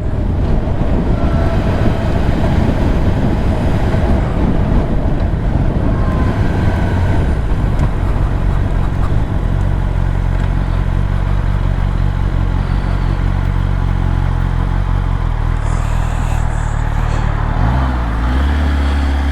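Kawasaki ZX10R superbike's inline-four engine running under way, mixed with wind noise. About halfway through, the engine settles to a steady pitch, and the pitch changes near the end.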